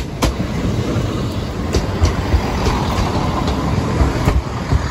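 A train running past over the level crossing, with a steady rumble and rush and a few sharp wheel clicks over the rail joints.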